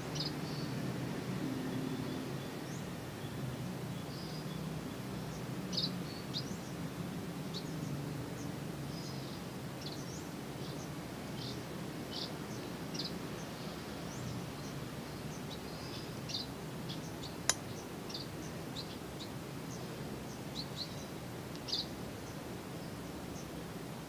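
Birds chirping in short, high, scattered calls over a steady low background hum. There is a single sharp click about seventeen seconds in.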